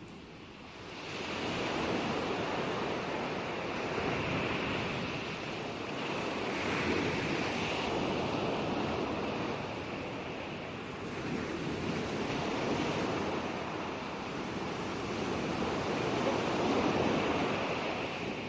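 Ocean waves breaking and washing on the shore: a steady rush of surf that swells in about a second in, then rises and falls in slow surges.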